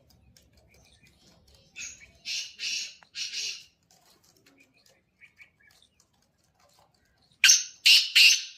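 Black francolin calling: a phrase of four harsh, grating notes about two seconds in, then another phrase of the same notes starting near the end.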